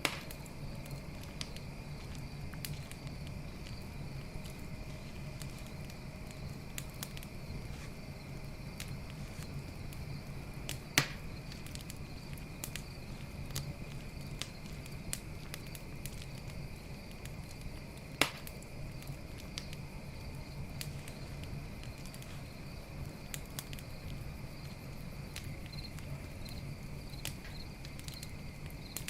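Campfire crackling with many small ticks and two sharper, louder pops about 11 and 18 seconds in, over a steady low rumble, with crickets chirping steadily.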